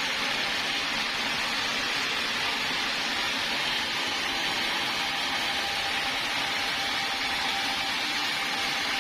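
Sawmill saw running steadily: an even, hissing noise with a faint steady whine.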